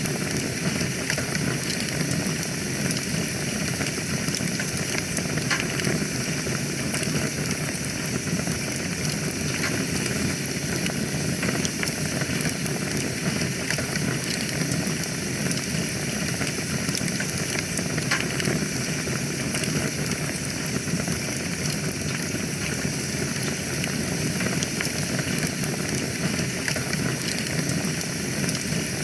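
Wood fire burning in a fireplace: a steady hiss and low rumble of the flames with scattered sharp crackles and pops.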